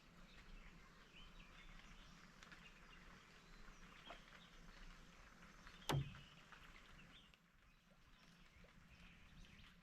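Faint outdoor quiet with scattered small high chirps, broken once by a single sharp knock about six seconds in.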